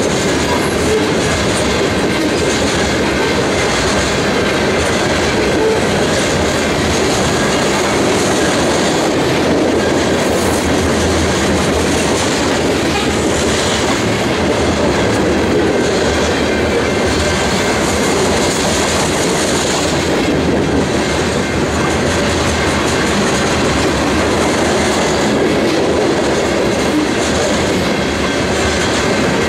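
Loaded covered hopper cars of a heavy grain train rolling past close by: a steady rumble and clatter of steel wheels on the rails.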